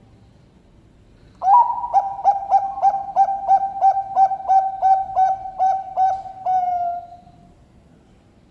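A Bangkok-type zebra dove (perkutut) sings one song. It opens with a first note, runs through about fourteen short, evenly paced coos at roughly three a second, and ends in a longer drawn-out note that fades.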